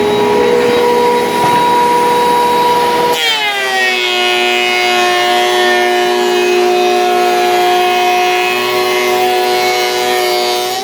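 Thickness planer running with a steady motor whine; about three seconds in, the pitch drops sharply as the board enters the cutterhead and the motor takes the load, then holds steady while it cuts. Right at the end the pitch starts to climb back as the cut finishes.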